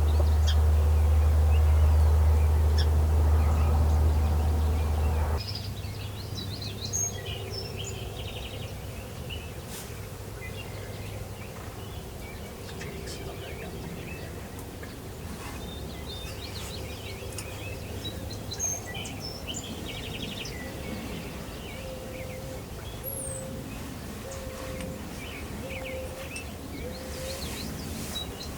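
Songbirds chirping and singing in a morning chorus, many short calls throughout, over a low rumble that is loud for about the first five seconds and then drops suddenly.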